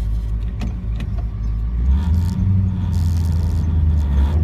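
1975 Pontiac Trans Am's V8 running at low speed, heard from inside the cabin. About two seconds in, the engine note gets louder and deeper as the car pulls away. A few light clicks sound in the first second.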